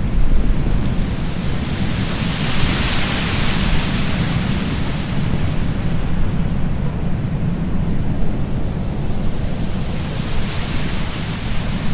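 Wind rumbling on the microphone over the wash of surf on a beach; the hiss of breaking waves swells about two seconds in and again near the end.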